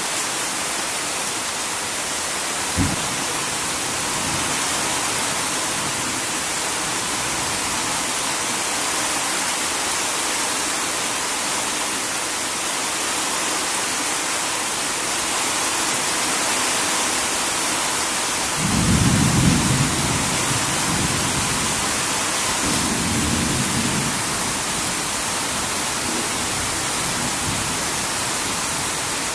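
Heavy rain falling steadily with a dense hiss. There is a single sharp knock about three seconds in. Thunder rumbles low about two-thirds of the way through, the loudest sound here, and a second, weaker rumble follows a few seconds later.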